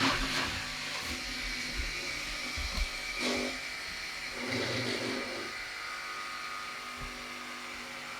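Electric power tool running steadily as it cuts small wooden boards, a continuous motor whine.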